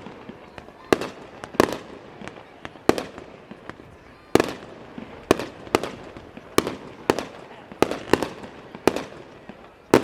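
Aerial fireworks shells bursting in a rapid series, about a dozen sharp bangs half a second to a second and a half apart, each trailing off in a short echo.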